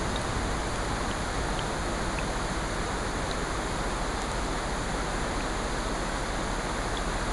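Layered rain and ocean surf forming a steady, even wash of noise, with a few faint scattered clicks from the crackling fireplace in the mix.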